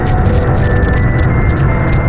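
Steady heavy rain and wind noise, with background music of sustained melodic notes over it.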